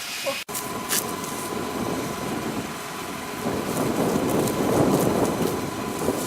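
Fire-truck pump engine running steadily while a hose sprays water, with a thin steady whine throughout and a swell of rushing noise in the middle.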